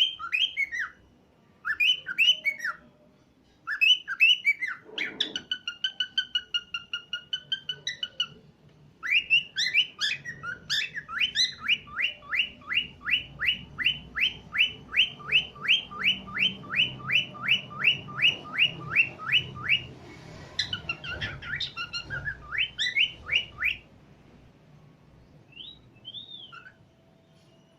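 Cockatiels chirping and whistling: bunches of short rising calls, a held whistle about five seconds in, then a fast even run of about three chirps a second for some ten seconds, thinning out to a few calls near the end.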